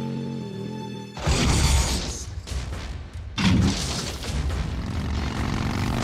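Action-film chase soundtrack: a held pitched sound cuts off about a second in and is followed by a loud crash, then a second heavy impact near the middle, with rumbling noise and score music underneath.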